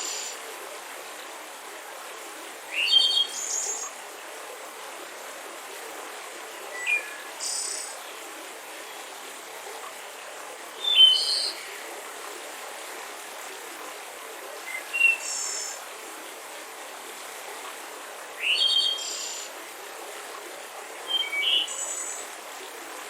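A songbird calling in short, high chirping phrases, six of them about every four seconds, over the steady rush of a mountain river.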